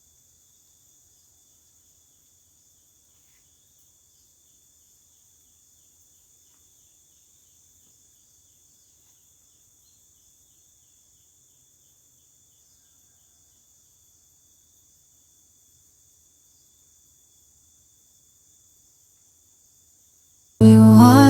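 Faint, steady high-pitched drone of a forest insect chorus with no breaks. Near the end, loud music cuts in suddenly.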